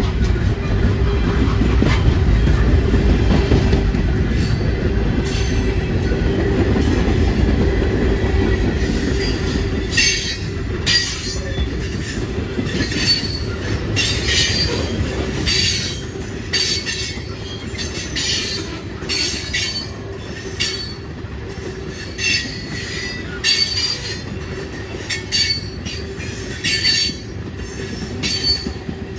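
A train passing close by: a heavy low rumble for the first several seconds, then from about ten seconds in the wheels give a string of short, high-pitched squeals over a lighter rolling rumble.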